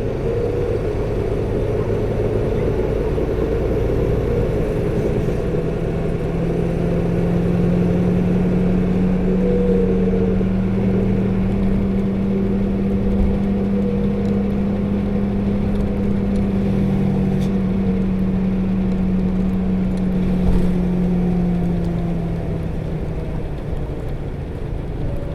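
Interior running sound of a 2008 PKG-RA274KAN diesel city bus cruising at a steady engine speed: a loud, even drone with a steady low note, and the viscous-coupling cooling fan whirring throughout, its whir loud for the engine speed. Near the end the note fades as the bus eases off.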